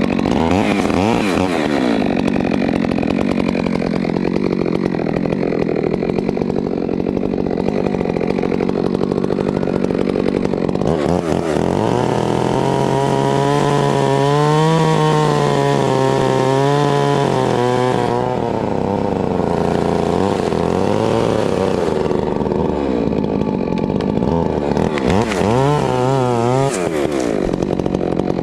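STIHL MS 462 two-stroke chainsaw running hard while cutting wood. Its engine pitch wavers up and down for several seconds around the middle and again briefly near the end.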